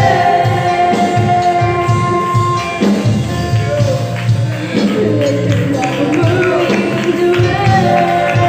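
Live gospel band music with a steady beat and choir singing.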